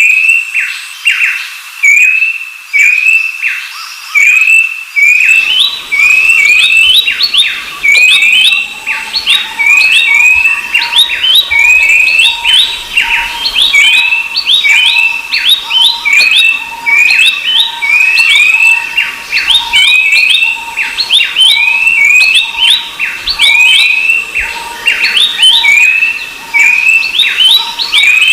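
Babblers singing: an unbroken run of short, clear whistled notes, each a quick glide, repeated two to three times a second. A steady thin tone joins about eight seconds in.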